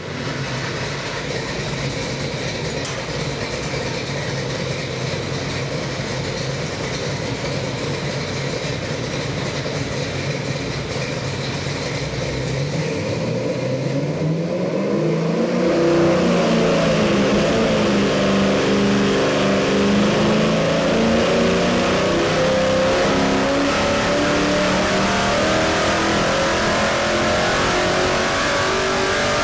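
Ford 347 stroker small-block V8 running on an engine dyno. It holds a steady speed for about twelve seconds, dips and climbs briefly, then from about sixteen seconds in pulls under load with its note rising slowly and steadily to the end.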